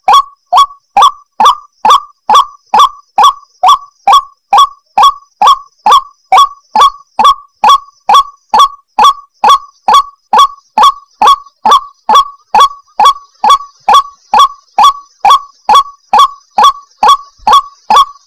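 White-breasted waterhen calling: a loud, short 'ruak' note repeated steadily about two and a half times a second without a break. It is a lure call for drawing in wild waterhens.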